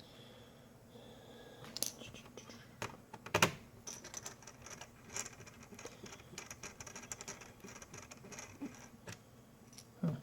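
Light clicks, taps and rattles of small screws and plastic laptop parts being handled during reassembly, with one sharper knock about three and a half seconds in and a run of quick light ticks after it.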